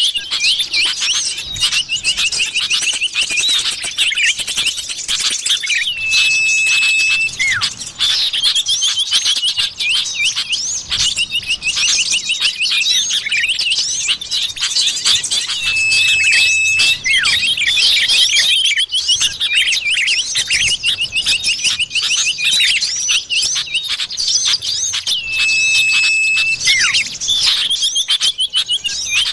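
Common iora (cipoh) bird-lure recording: dense, overlapping chirps and rapid trills, with a long steady whistle coming back about every ten seconds as the track loops.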